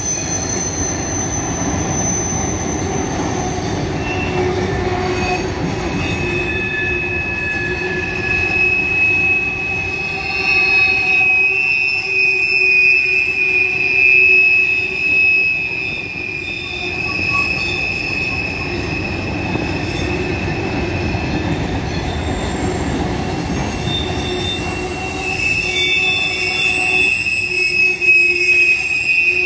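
Empty covered hopper cars of a grain train rolling past, with a steady rumble of wheels on rail. High-pitched wheel squeal that comes and goes rides over it as the wheels grind through the curve where the train turns off the main line.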